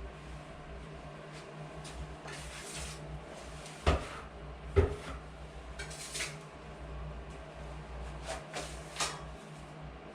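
Drywall work by hand: short scraping strokes of a tool on the wall, with two sharp knocks less than a second apart near the middle, over a steady low hum.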